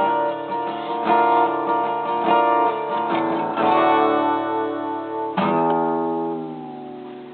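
Acoustic guitar playing the instrumental close of the song with no singing: strummed and picked chords, then one chord struck about five seconds in and left to ring out and fade.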